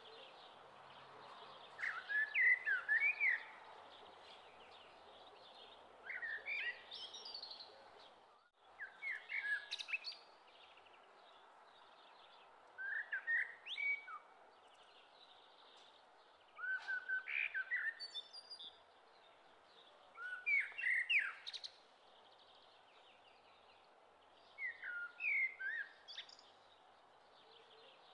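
Songbird singing: short phrases of quick, gliding chirps, each lasting about a second, repeated every three to four seconds over a faint steady hiss.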